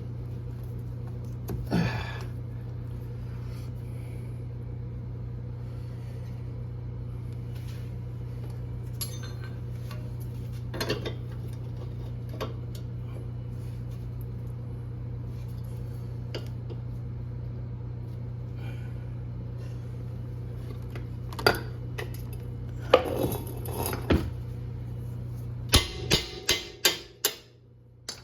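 Hand tools and metal parts clinking and knocking now and then during work on a Honda CR-V's drive axle, over a steady low hum. Near the end comes a quick run of sharp metal clinks, and the hum stops.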